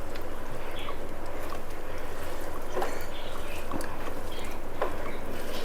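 Quiet eating sounds: chewing and hand-mixing rice and chicken curry, a few faint wet clicks spread through, over a steady low hum.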